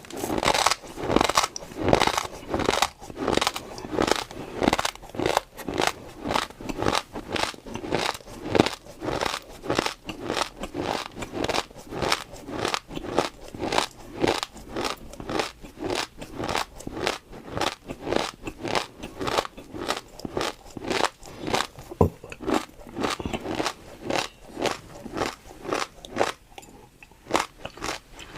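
Close-miked chewing of crunchy food, a steady rhythm of about two to three crunches a second.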